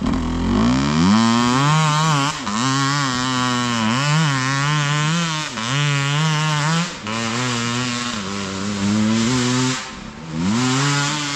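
Enduro dirt bike engine revving, its pitch rising and falling over and over as the throttle is worked, with short drops in level about two, seven and ten seconds in.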